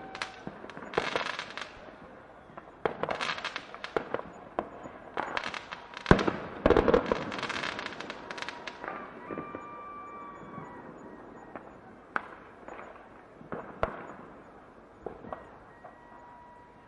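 Fireworks going off: a run of crackling bursts with a few sharp bangs near the middle and faint whistling tones here and there, thinning out to scattered pops near the end.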